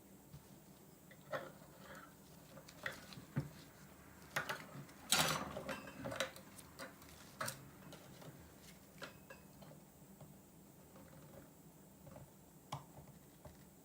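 Scattered light clicks and taps of small hard parts being handled, with a short burst of rattling clicks about five seconds in.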